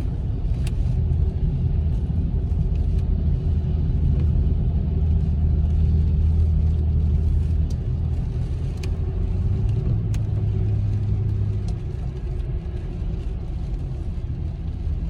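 Car engine and road noise heard from inside the cabin while driving: a steady low drone whose pitch rises for a couple of seconds around ten seconds in, with a few faint ticks.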